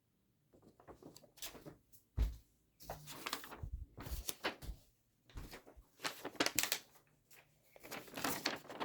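Toys being handled by hand: scattered light clicks, taps and knocks, with a duller thump about two seconds in.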